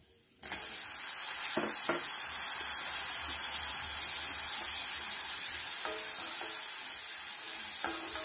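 Fresh coconut pieces hitting hot oil in a steel kadai and sizzling steadily, roasting with spices for a masala paste. The sizzle starts suddenly about half a second in, and a few short scrapes of a steel slotted spatula stirring the pan come through it.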